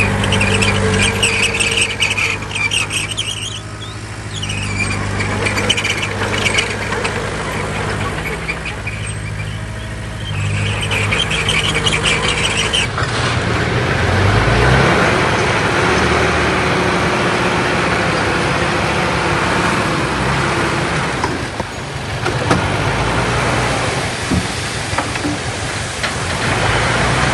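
Diesel engines of heavy earthmoving machinery working, with stretches of high metallic squealing in the first half. An engine revs up around the middle, then a denser, noisier machine sound follows.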